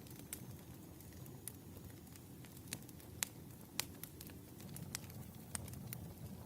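Campfire ambience: a low steady rumble of burning wood with sharp pops and crackles scattered through, the loudest about three and four seconds in.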